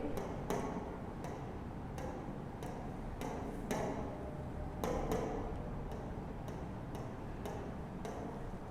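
Faint, regular ticking, about two ticks a second, over quiet room tone.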